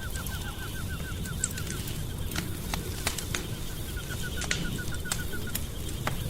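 Wood fire burning in a fireplace: a steady low rumble with scattered sharp crackles and pops. Over it, twice, a quick run of short high chirps, about seven a second, the first stopping near two seconds in and the second running from about four to five and a half seconds.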